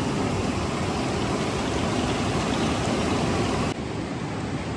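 Steady rush of flowing river water. About four seconds in, it abruptly becomes slightly quieter and duller.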